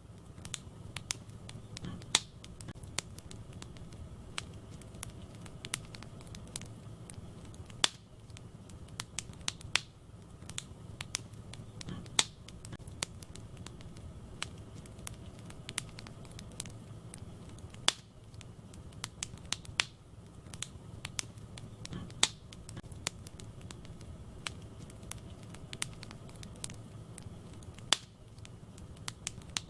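Wood fire burning in a fireplace: sharp crackles and pops several times a second over a low steady rumble of the flames, with a few louder snaps. The same pattern of loud pops repeats about every ten seconds, as in a looped recording.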